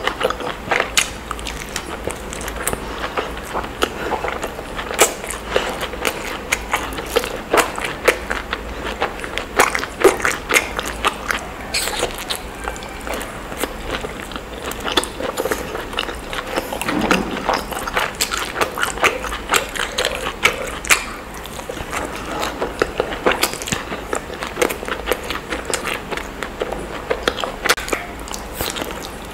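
Close-miked eating sounds of steamed dumplings being bitten and chewed: wet chewing and lip smacking, with many sharp, sticky mouth clicks.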